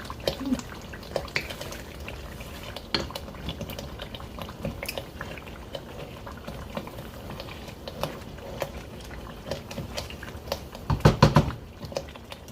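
Pot of peanut butter soup bubbling on the boil, with many small pops from the thick simmering liquid. A short run of louder knocks near the end.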